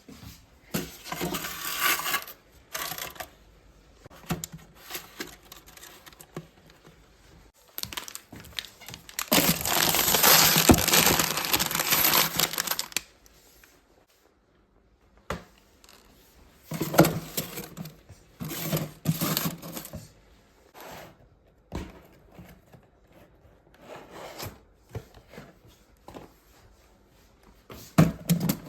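Plastic snack and ice-cream packaging crinkling and rustling in irregular bursts as it is handled, with a longer stretch of rustling about ten seconds in and a few light knocks of packages being set down.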